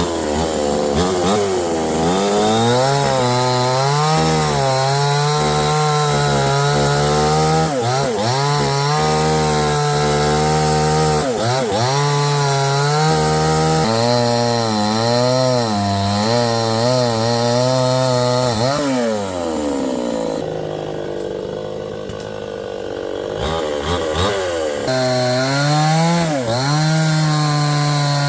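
Chainsaw running and cutting, its engine pitch dipping and rising under load. About two-thirds of the way through it drops to a lower, quieter note for a few seconds, then revs up again.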